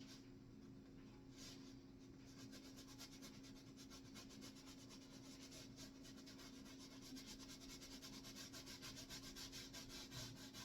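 Faint, quick scrubbing of a paintbrush on canvas: rapid short strokes, several a second, that become steady about two seconds in, over a faint steady hum.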